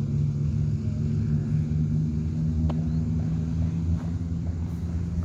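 Stock street motorcycle engine idling steadily.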